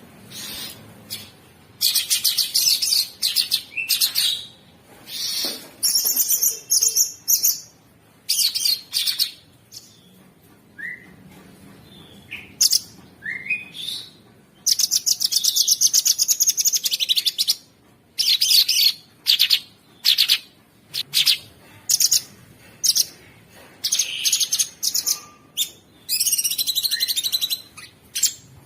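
Cucak sungkok bird singing: harsh, rapid rattling trills in bouts of one to three seconds with short pauses between them, and a few brief rising whistles in the middle.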